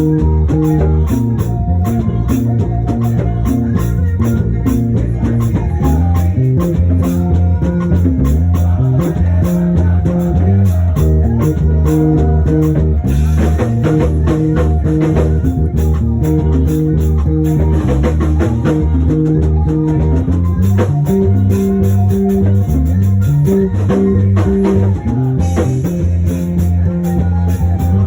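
Live band music: a strong bass line with guitar and drum kit playing a steady, busy rhythm.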